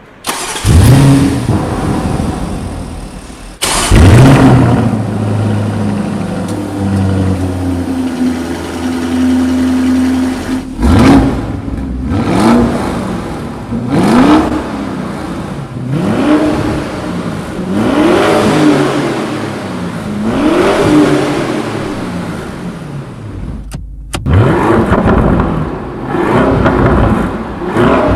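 Performance SUV engine starting with a loud flare and settling to idle, then blipped again and again, the revs rising and falling about every one and a half seconds.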